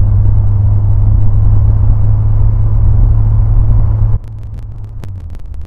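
Engine and propeller drone of a Zenith 601 light aircraft heard in the cockpit, with a strong steady low hum. About four seconds in the sound drops abruptly to a much lower level, with scattered sharp clicks.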